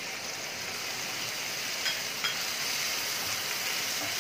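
Chopped tomatoes sizzling in hot oil with sautéed onion and garlic in a stainless steel frying pan as they are stirred with a wooden spatula. Two light clicks about two seconds in.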